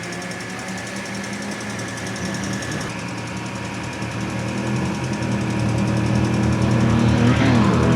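Racing car engine running at fairly steady revs a little way off, getting louder over the last few seconds as it comes nearer. Near the end its pitch shifts and it climbs again under acceleration.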